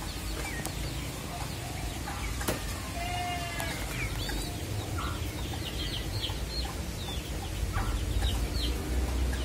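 Background bird calls: scattered short high chirps, and a brief call with several tones about three seconds in, over a steady low rumble.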